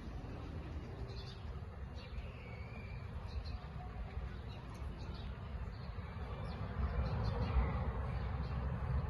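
Boeing 737-700 jet engines heard as a low, steady rumble that grows a little louder about seven seconds in, with faint bird chirps.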